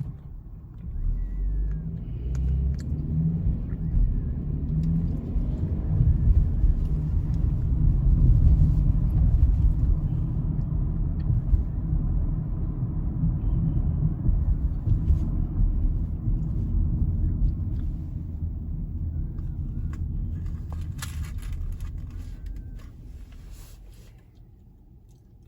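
Car driving over a road bridge: a low tyre and road rumble that builds about a second in, holds steady, and dies away over the last few seconds.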